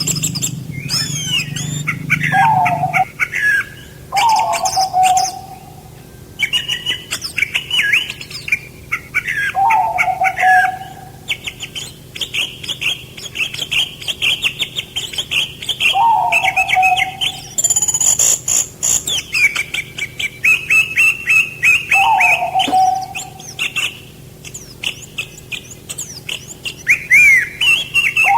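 Songbirds singing: a low falling whistle repeats every five or six seconds, among higher, quicker chattering and trilling song. A low hum stops about three seconds in.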